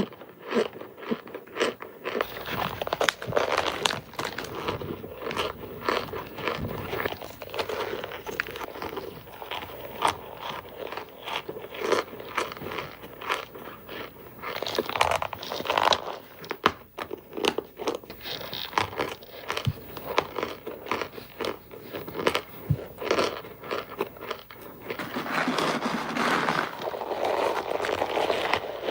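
Hard cornstarch bricks crunching and crumbling in a dense, irregular run of small crackles that is heaviest near the end.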